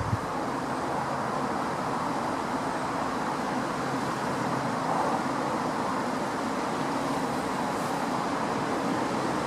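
Steady vehicle running noise, an even rushing sound with a low hum underneath, holding at one level throughout.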